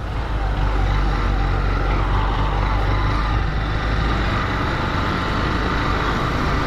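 Honda Fan 150 single-cylinder motorcycle engine running steadily under way, mixed with steady wind rush on the helmet camera.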